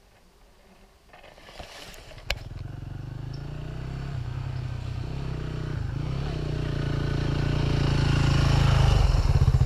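Dirt bike engine starting about two seconds in with a sharp click, then running with an even pulse and growing steadily louder.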